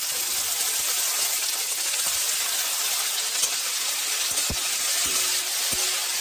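Green peas and boiled papaya cubes sizzling in hot oil in a kadai, a steady hiss. In the second half a spatula stirs them, giving a few short knocks and scrapes against the pan.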